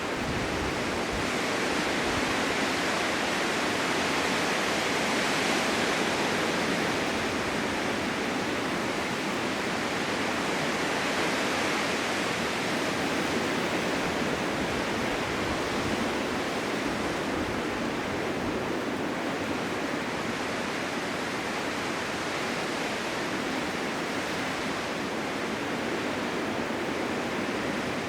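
Blizzard wind rushing: a dense, steady hiss of wind-driven snow that swells gently and eases slightly later on.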